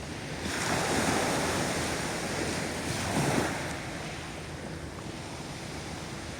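Sea waves breaking on the shore: a wave surges in about half a second in, crashes loudest around three seconds, then washes back and quietens.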